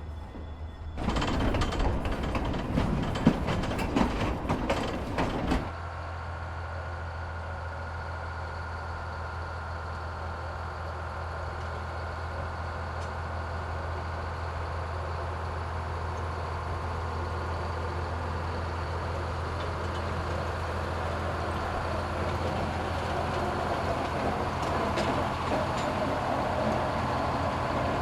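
Train rolling on the rails, heard from aboard: a steady low rumble that slowly grows louder, with rail clicks near the end. It is preceded by a few seconds of louder rattling noise with sharp clicks that cuts off abruptly.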